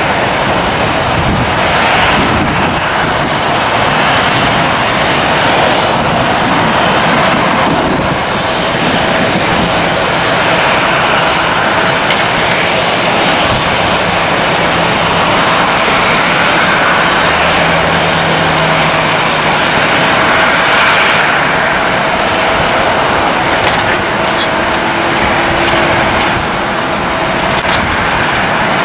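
Airliner engines running at an airport, a loud, steady rush of noise with a faint steady whine, fading toward the end. A couple of sharp clicks near the end.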